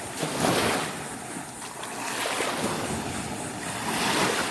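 Surf breaking on the beach in rough water, a rushing wash that swells about half a second in and again near the end, with wind buffeting the microphone.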